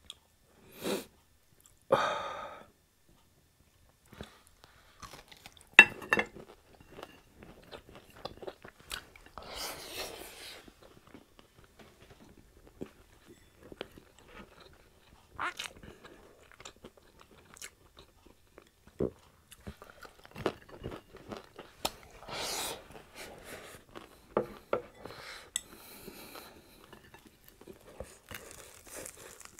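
Crispy fried pork chop being bitten and chewed close up: irregular crunches and clicks, with a sharp louder crunch about six seconds in.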